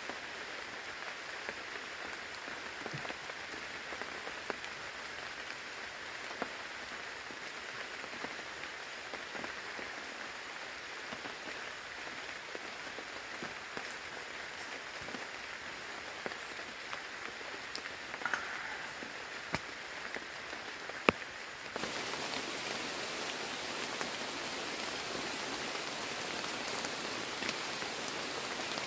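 Steady rain falling on the forest and the camp, with scattered small ticks and one sharp click a little past two-thirds through. Just before three-quarters through, the rain suddenly turns louder and hissier.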